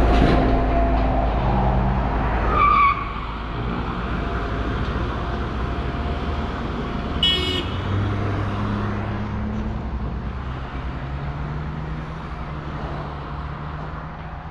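Loud road noise from a moving vehicle: a steady low engine and wind rumble. There is a brief high-pitched tone about three seconds in and another short high squeal at about seven seconds.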